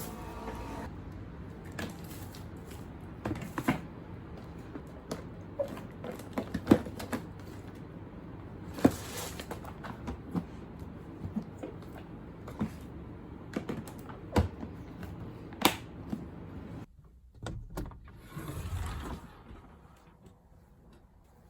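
Irregular clicks and knocks, as of objects being handled and set down, over a steady low background noise that drops away about two-thirds of the way through.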